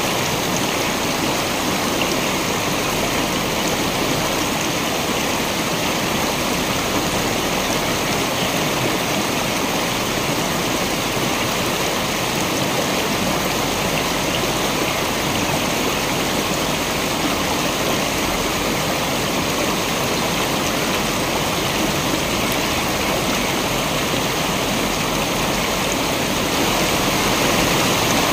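Waterfall: a steady, even rush of falling water, a little louder near the end.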